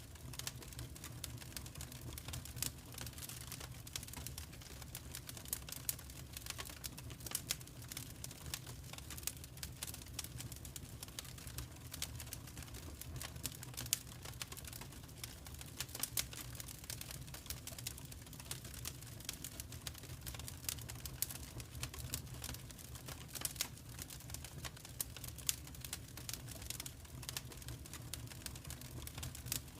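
Fire in a fireplace crackling: irregular quick snaps and pops over a steady low rumble.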